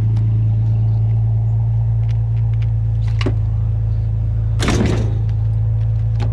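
Pickup truck engine idling with a steady low hum, with a short knock about three seconds in and a louder metal clatter a little later.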